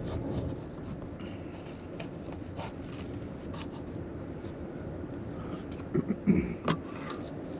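Knife scraping and cutting around the stem of a cooked stuffed pepper on a plate. There are quiet ticks and scrapes throughout, a few louder knocks of utensil on dish near the end, and a steady low rush behind.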